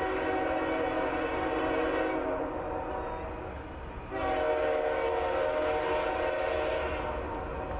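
Diesel locomotive's multi-chime air horn sounding two long blasts, a few notes at once in a steady chord, with a low train rumble underneath. The pattern is the opening of the long-long-short-long grade-crossing signal.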